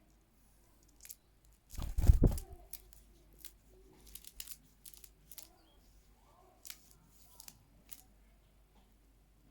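Small pet bird playing, making scattered sharp clicks, taps and rustles, with one loud bump about two seconds in.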